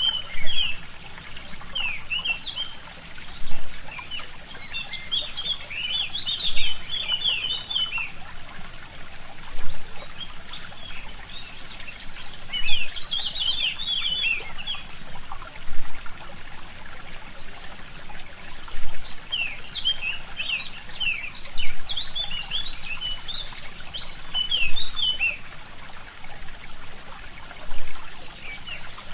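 Small stream trickling steadily, with songbirds singing phrases of quick, high chirps in several spells. Brief louder pulses come about every three seconds.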